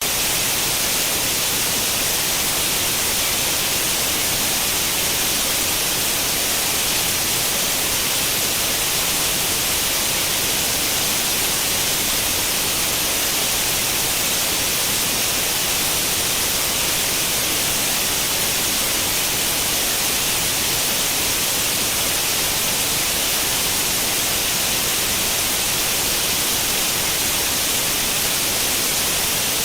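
Steady white noise like the static of an old CRT television tuned to no channel: an even, unbroken hiss, strongest in the high range.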